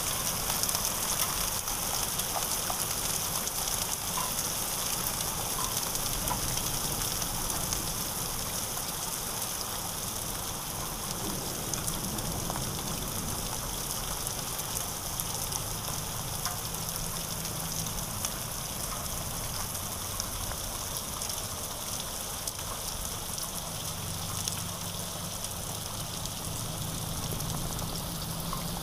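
Heavy rain of a hailstorm falling steadily on a muddy dirt lane and puddles, with a few sharp ticks now and then.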